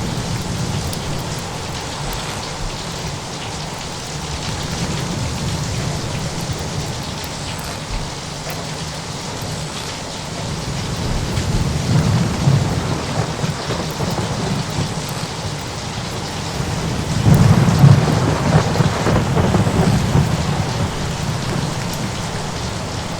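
Thunderstorm: steady rain with rolling thunder rumbling beneath it, one rumble swelling about halfway through and a louder, longer one about three-quarters of the way in.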